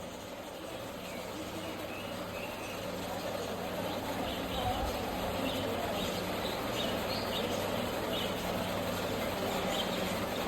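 Background between bird calls: a low rumble like a distant engine, slowly growing louder over a steady hum, with faint short high chirps from small birds.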